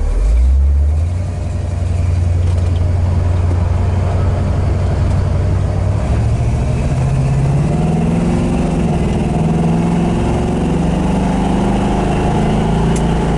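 Crate 350 cubic-inch V8 of a 1967 Chevrolet El Camino pulling through its automatic transmission while driving: the engine note surges briefly about a second in, steps up in pitch around halfway, then climbs gently as the car gathers speed. Smooth and not too loud.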